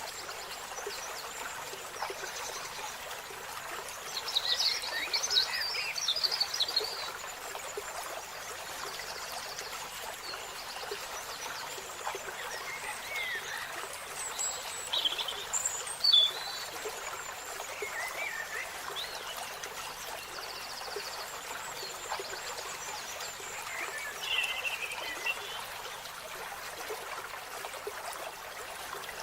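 Wild birds calling in short, high chirps and trills at scattered moments, over a steady hiss like flowing water.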